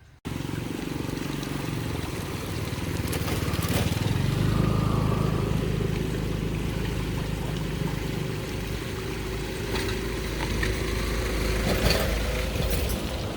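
An engine running steadily, starting abruptly just after the start, with a few faint clicks over it.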